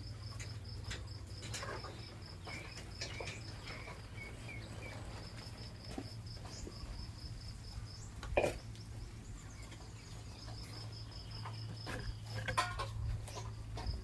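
An insect chirping in a fast, steady pulsing trill that drops out for a while in the middle, over a low hum, with scattered light clicks, one sharp knock about eight seconds in and a burst of clatter near the end.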